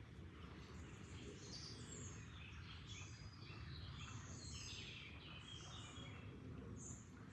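Several birds chirping in many short calls over a faint, steady low rush of flowing water.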